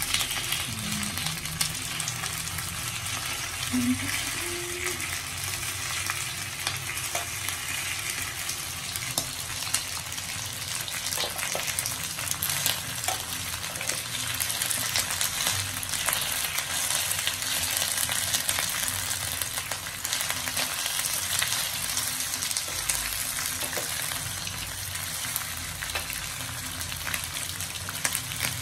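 Slices of filled cake frying in oil in a non-stick pan, a steady sizzle, with occasional light clicks as metal tongs turn the slices.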